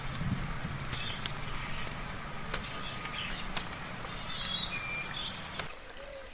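Birds chirping in short, high calls over the steady hiss of light rain, with scattered sharp drip ticks. A low steady drone runs underneath and cuts off near the end.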